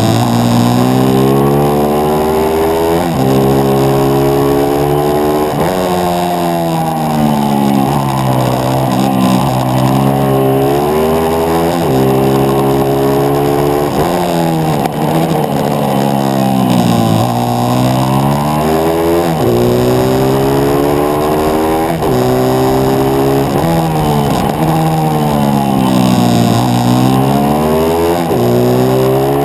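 On-board 140cc pitbike's single-cylinder four-stroke engine running hard in a race. The pitch climbs and drops back over and over every two to three seconds as the rider accelerates up through the gears and shuts off for corners.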